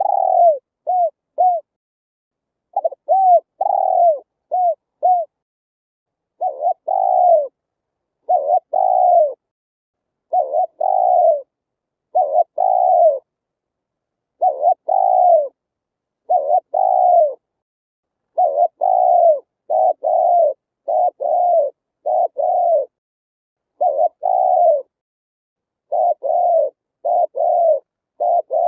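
Spotted dove cooing: low, pitch-arched coos in repeated phrases of two or three notes, about one phrase every two seconds, with dead silence between phrases.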